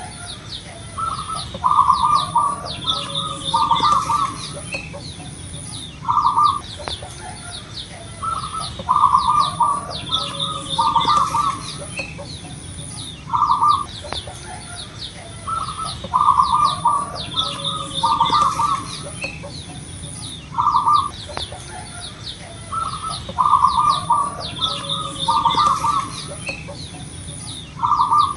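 Zebra dove (perkutut) cooing in short staccato phrases, one every second or two. Behind it are quick high chirps of other small birds and a steady pulsing high insect buzz.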